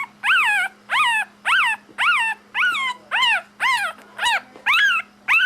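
A young puppy crying in a steady run of high-pitched whines, about two a second. Each whine rises and then falls in pitch.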